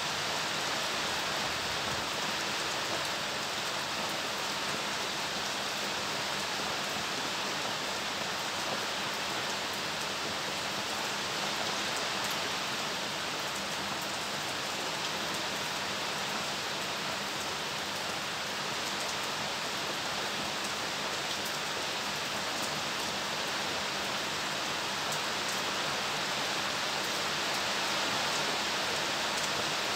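Steady rain: a dense, even hiss of falling drops with many small scattered ticks.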